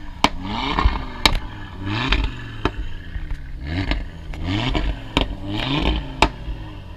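Audi RS3's turbocharged five-cylinder engine blipped about six times in quick succession, each rev rising and falling in pitch. Sharp cracks from the exhaust come between the revs.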